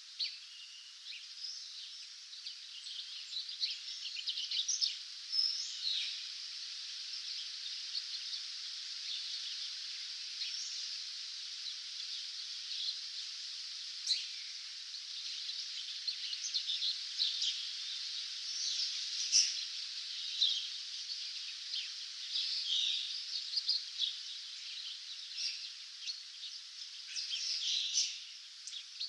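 Dawn chorus of many small birds chirping and singing at once, with many short calls and trills overlapping throughout.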